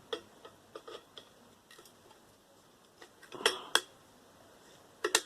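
Scattered small metallic clicks and clinks of hand tools and sheet-metal parts as a microwave is pried apart, with the loudest short clatter about three and a half seconds in and a last couple of clicks near the end.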